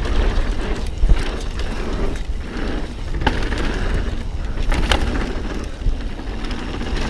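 Mountain bike rolling over a dirt and rock trail, with tyre noise and the bike rattling, a few sharp knocks as it hits rocks, and wind rumbling on the helmet-camera microphone.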